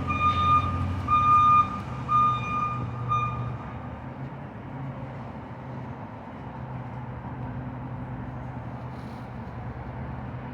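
McNeilus rear-loader garbage truck backing up: its reverse alarm beeps about four times, evenly spaced, and stops about three seconds in. The truck's engine runs steadily underneath throughout.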